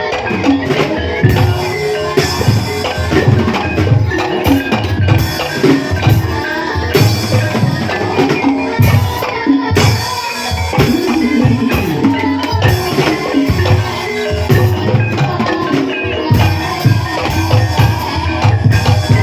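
Loud live gamelan music accompanying an ebeg horse-dance, with regular drum strokes and tuned mallet-struck percussion.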